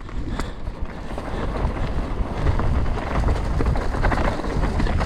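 Wind buffeting the camera microphone while a Canyon Spectral 125 mountain bike rolls over a rough trail, with tyre noise and many small knocks and rattles from the bike.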